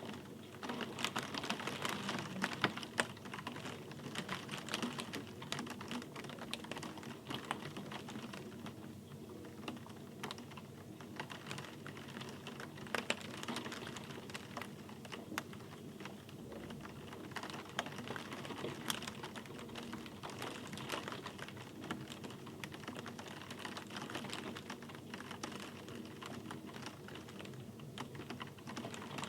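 Steady rain, with a dense, irregular patter of sharp individual drop ticks over a soft hiss.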